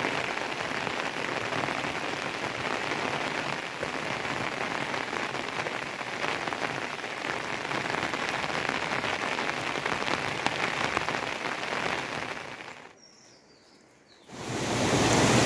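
Steady rain falling, a dense hiss full of fine drop ticks. It fades out about twelve seconds in, there is a moment of near silence, and near the end a louder, steady rushing noise cuts in.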